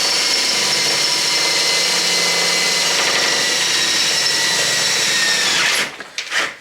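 Electric drill running steadily as it bores a corner hole in an entry door for a window cutout, with a steady whine. It winds down and stops about six seconds in, followed by a few knocks.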